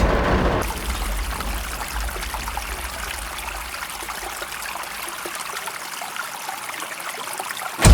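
A steady trickling, pouring noise with small scattered ticks, after a loud low rumble that stops about two-thirds of a second in.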